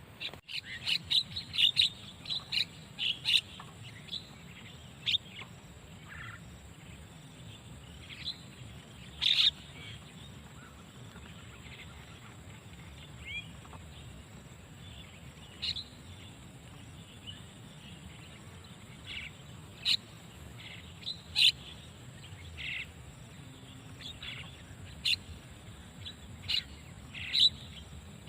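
Short, sharp bird chirps: a quick run of them in the first few seconds, then single calls every second or two, over a steady faint background hiss.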